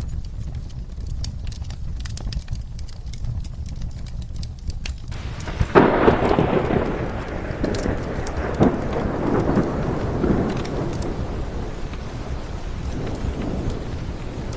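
Steady rain with scattered fireplace crackles. About six seconds in, a thunderclap breaks and rumbles on, swelling and fading over several seconds.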